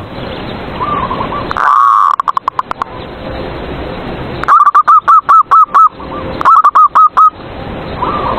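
Zebra dove (perkutut) cooing: one loud coo about two seconds in, then two quick runs of ringing coo notes, about seven and then five, with fainter cooing around them over a steady hiss.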